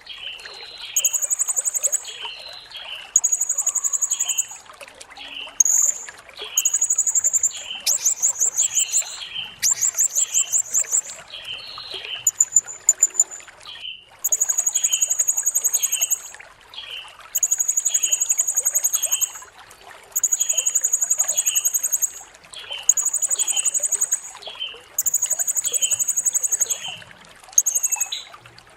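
Blue-crowned hanging parrot (serindit) singing a long run of shrill, very high, buzzy notes, each about a second long and repeated with short gaps. A few quick stuttering trills come in the middle. Softer chips repeat steadily beneath.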